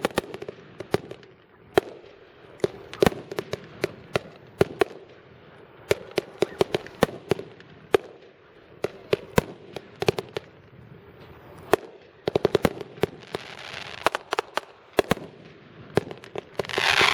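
Consumer fireworks going off: a long series of sharp bangs and pops, some in quick runs of a few a second, ending with a loud hissing, crackling burst near the end.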